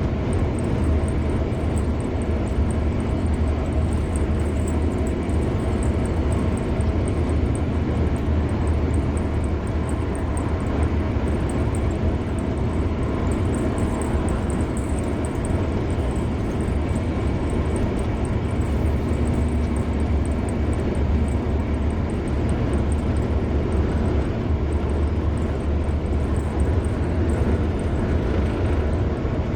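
A car driving steadily along a highway: constant road noise of tyres and engine, with a deep, even rumble.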